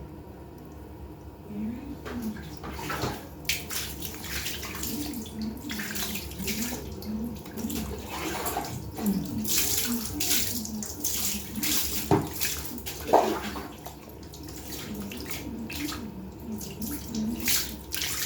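Water splashing and sloshing in irregular strokes while a cat is bathed, starting about a second and a half in.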